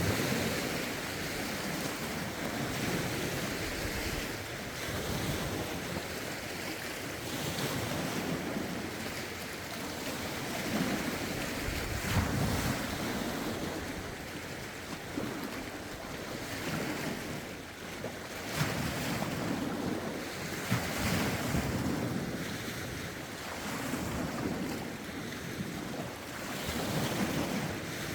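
Lake waves washing in one after another in rough wind, each swell rising and easing every couple of seconds, with wind buffeting the microphone.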